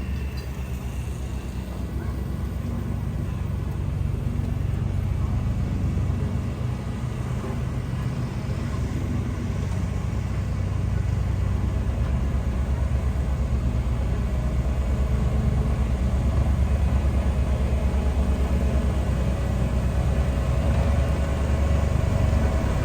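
Heavy diesel engine of a bulldozer running steadily, a low rumble that grows somewhat louder over the second half.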